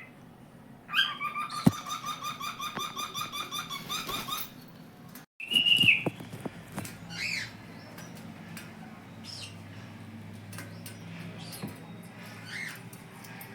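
Cockatiel singing: a fast run of repeated chirps lasting about three and a half seconds, then a short held whistle that dips at its end, followed by a few fainter chirps and scattered small clicks.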